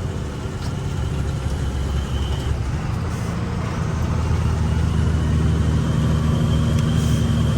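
Truck engine running steadily while driving, with a low hum and road noise; it gets slightly louder about halfway through.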